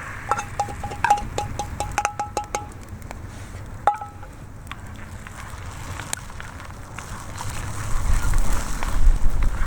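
A utensil clinking rapidly against a ringing dish, about a dozen quick strikes in the first few seconds and one more a little later, typical of beating eggs; a wood fire crackles throughout, with a low rumble building near the end.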